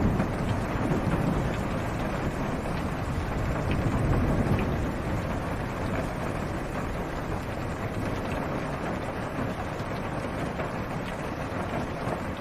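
Steady rain falling on a car's roof and windshield, heard from inside the car, with small drop ticks. A low thunder rumble swells in the first half and dies away.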